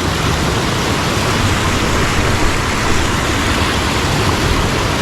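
Fast-flowing mountain stream water rushing, a loud, steady, unbroken hiss of white water.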